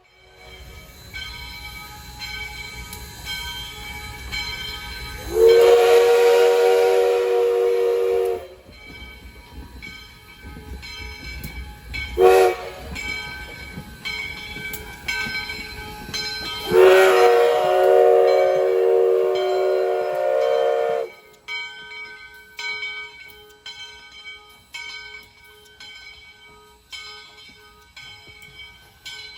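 Steam locomotive's multi-chime whistle blowing a long blast, a short toot, then another long blast, with the engine bell ringing steadily throughout.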